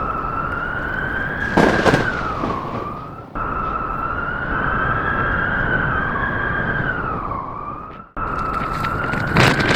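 Blizzard wind howling: a steady roar with a wavering whistle that slowly rises and falls, and a few sharp cracks. The sound fades away twice and comes back suddenly.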